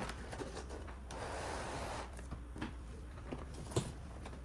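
A heavy cardboard box being tipped over and handled: a rubbing, sliding sound about a second in that lasts about a second, among a few light knocks and clicks.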